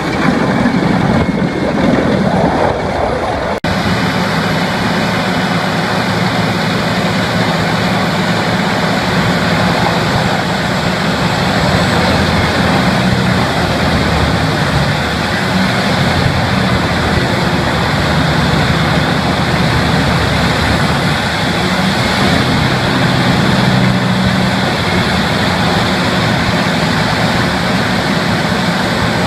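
Heavy wood-chipping machine running under load: a steady engine drone beneath a dense, unbroken grinding noise, with an abrupt break about three and a half seconds in.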